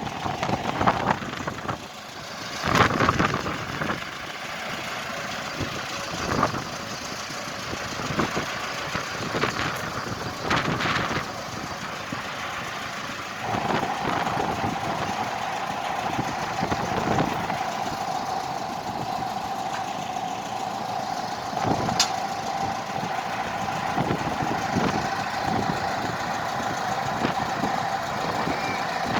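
A heavy engine running steadily, with scattered knocks and clatter; a steady droning tone joins about halfway through.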